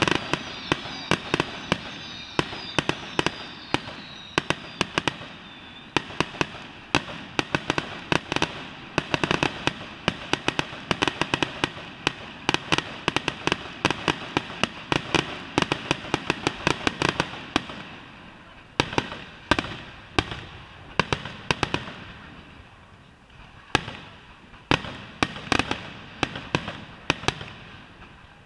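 Fireworks finale barrage: a rapid, dense run of shell bursts and crackling bangs, thinning about two-thirds of the way through into slower, spaced clusters of bangs.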